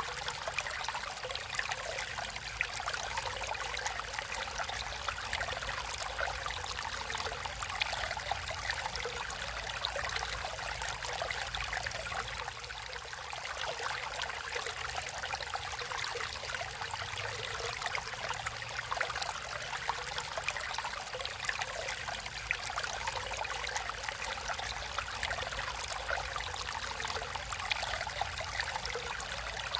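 Stream water running and trickling steadily, with a constant light splashing.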